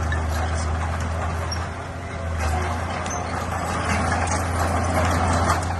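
Bulldozer's diesel engine running steadily under load. It eases off briefly about two seconds in and builds up again toward the end, with light clattering over it.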